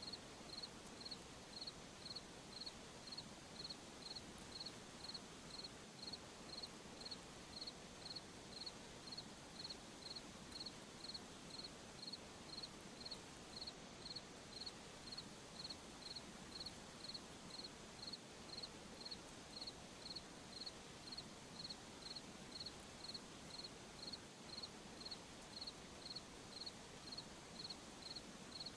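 A cricket chirping faintly in a steady, even rhythm of short high-pitched chirps, about two a second, over a soft background hiss.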